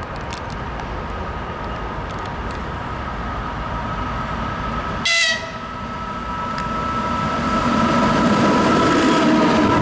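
EP2K electric locomotive approaching with a passenger train, a steady two-toned whine growing louder as it nears. About halfway through, a short high-pitched blast of the locomotive's whistle falls in pitch and cuts off.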